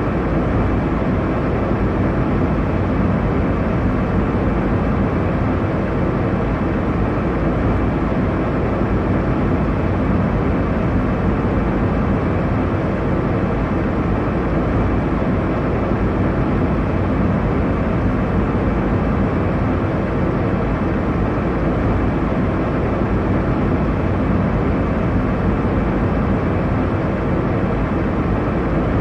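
Steady airliner cabin noise: the even rumble and hiss of engines and airflow heard from inside the passenger cabin in flight, with no change throughout.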